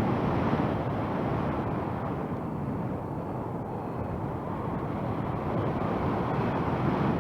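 Wind rushing over the camera microphone in flight under a paraglider: a steady rumbling noise that eases slightly midway and swells again near the end.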